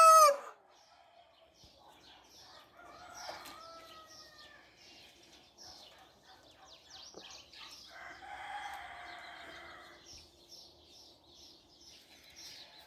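A rooster's crow cutting off half a second in. Fainter crowing follows around three to four seconds and again around eight to ten seconds, over faint chirping of small birds.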